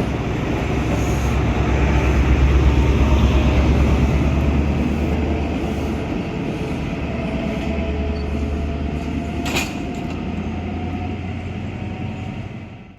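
A train running past with a heavy, continuous rumble, loudest a few seconds in, with faint thin squealing tones in the middle and a single sharp metallic clank about three-quarters of the way through. The sound cuts off suddenly just before the end.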